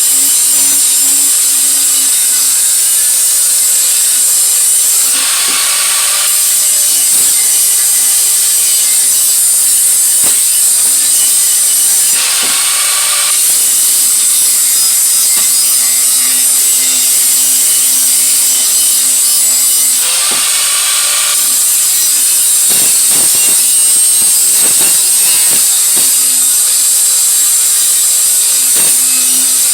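A power tool cutting or grinding the steel exhaust head pipe, running steadily with a bright, high hiss. Its note shifts briefly at three points spaced roughly seven seconds apart as the load on the work changes.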